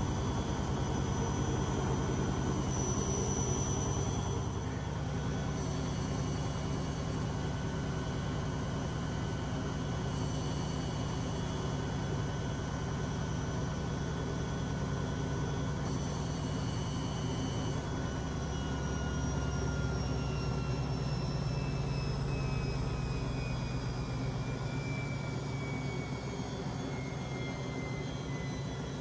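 Beko WMB 71643 PTE washing machine with its drum spinning. The motor whine holds steady, then falls slowly in pitch over the last ten seconds or so as the drum slows down.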